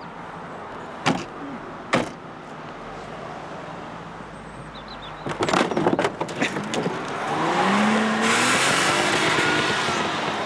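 Demolition-derby cars: two sharp bangs like doors being shut, then a cluster of knocks and bangs, then an engine revving up with rising pitch over a loud hiss.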